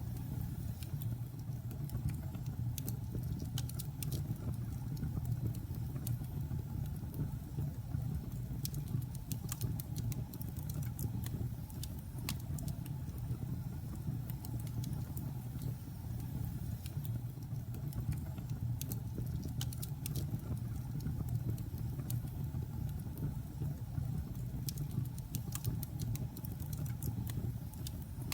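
Logs burning in a fireplace: a steady low rumble of the fire with frequent, irregular sharp crackles and pops.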